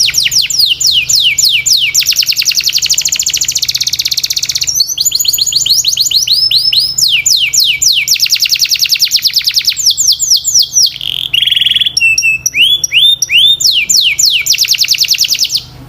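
A canary singing one long, loud, unbroken song made of rapid trills, each a fast run of repeated falling notes. One or two shorter, steadier phrases come near the middle, and the song stops abruptly near the end.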